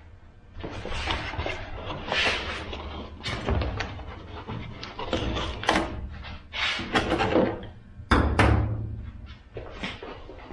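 Metal cabinet parts being handled and shifted on the bench: a run of irregular knocks, scrapes and clanks, with heavier thumps about three and a half and eight seconds in.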